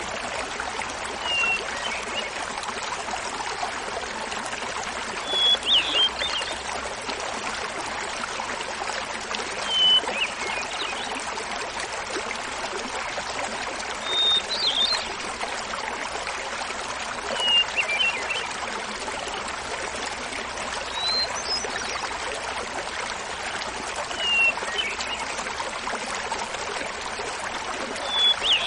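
Small mountain waterfall splashing steadily, with a hermit thrush singing over it: a short flute-like phrase every three to four seconds, each a held note followed by a quick fluttering run, about eight phrases in all.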